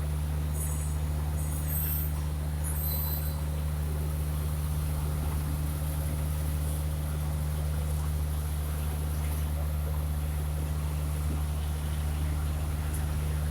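Heavy vehicle engine running steadily, a constant low drone, with a few faint high-pitched chirps in the first three seconds.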